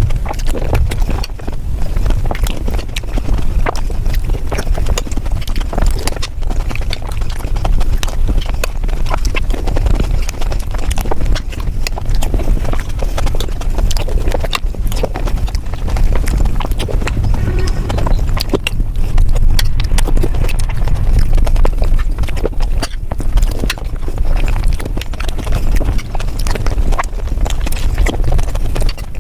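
Mukbang eating sounds of dahi puri, sped up five times: rapid crunching and chewing heard as a dense, unbroken run of quick clicks and smacks.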